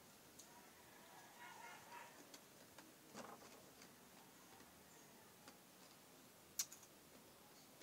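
Near-silent room with faint scattered clicks of chewing crunchy fried corn snacks (Boy Bawang), and one sharper click about six and a half seconds in.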